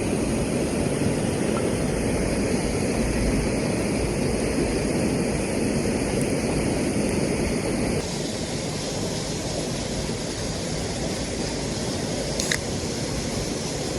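Steady rushing noise with no distinct events. Its tone changes abruptly about eight seconds in, and there is a single faint tick near the end.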